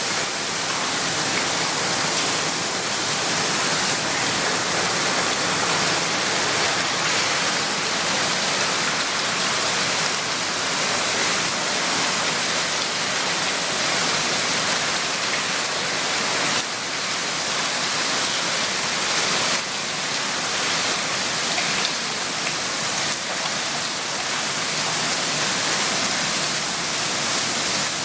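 Heavy cloudburst rain pouring down in a steady hiss.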